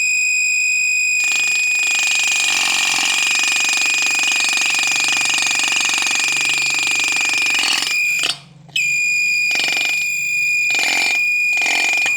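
Homemade bird-catching sound device (otok) giving a steady shrill tone, like a buzzer. From about a second in a rasping buzz rides over the tone; it cuts out briefly about eight seconds in, then comes back in three short buzzy pulses.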